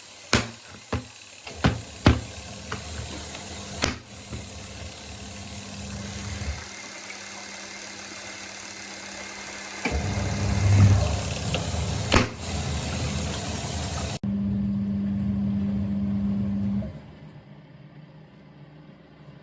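Electric motor of a twin-tub portable washing machine humming steadily in several stretches that start and stop abruptly, with a handful of sharp clicks and knocks in the first few seconds.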